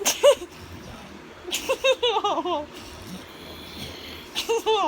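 A young child laughing in high-pitched giggles: a short burst at the start, a quick falling run of laughs about a second and a half in, and another burst near the end.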